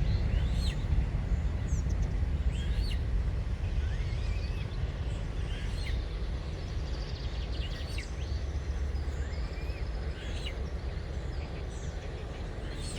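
Short, high bird chirps that rise and fall, repeated every second or two, over a steady low rumble of outdoor noise.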